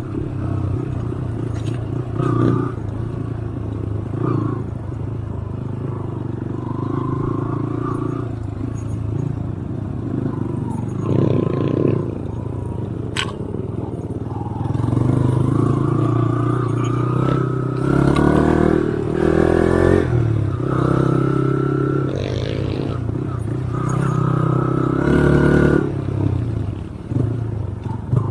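Motorcycle engine running and revving on a rough off-road trail, its pitch rising and falling with the throttle, with clattering and rattling over the bumps.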